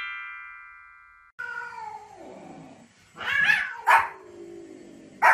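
A chime rings and fades, stopping about a second in. Then a white Pomeranian and cats: long falling meowing calls, and three sharp yaps, the loudest near the end.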